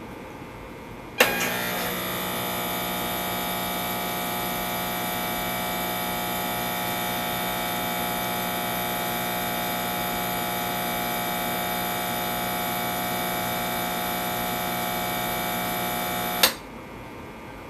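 Intoxilyzer 5000 breath-alcohol analyser's air pump switching on with a click about a second in. It runs steadily for about fifteen seconds during the instrument's calibration-check sequence, then cuts off with a click.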